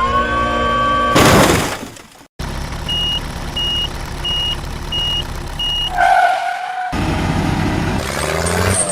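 Construction machinery running, with a reversing alarm giving five short, evenly spaced high beeps over the engine noise. Near the start there is a held tone and then a loud rush of noise, and the sound cuts abruptly between clips.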